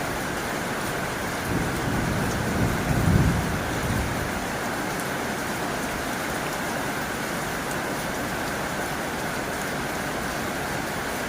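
Heavy rain drumming steadily on a tin roof. A low rumble swells and fades about two to four seconds in.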